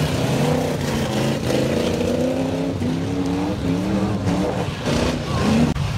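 Several racing cars' engines running hard together, their pitch rising and falling as they accelerate and lift around the laps.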